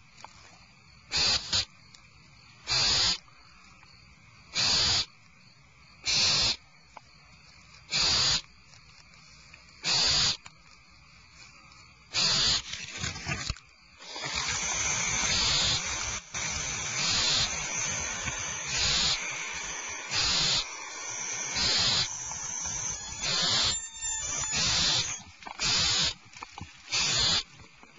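Barn owl nestlings giving their rasping, hissing begging calls: at first one snore-like hiss about every two seconds, then from about halfway a steady hiss with calls coming faster on top, as more of the young call together.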